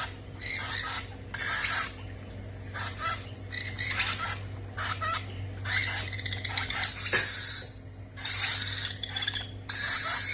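Baby parrots giving a string of harsh, rasping begging calls, each about half a second to a second long, louder ones coming in the second half: the food-begging of chicks at feeding time.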